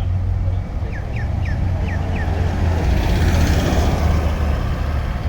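A car running with a steady low rumble, and a broad rush that swells about three to four seconds in as a vehicle moves close by. Five short, high, falling chirps come in quick succession about a second in.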